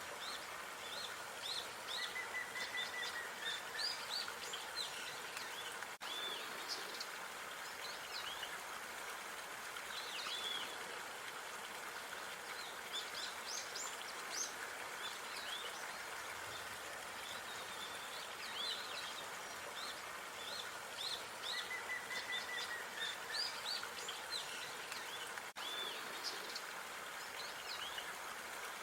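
Outdoor park ambience: small songbirds chirping and whistling in quick short calls, with a brief trill now and then, over a steady even hiss.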